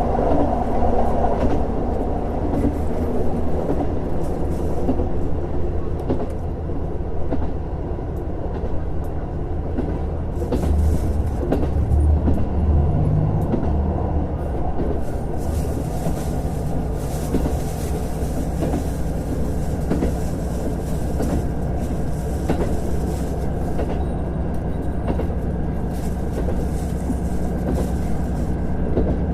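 JR Hokkaido KiHa 150 diesel railcar running along the line: a steady diesel engine drone with scattered clicks from the wheels and rails. About halfway through the engine note shifts and then holds a steady tone.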